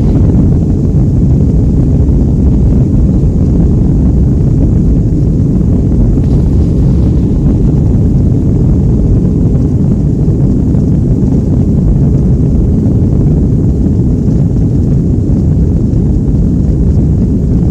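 Boeing 757-200 at takeoff, heard from inside the cabin: the engines at takeoff power and the airflow make a loud, steady low rumble.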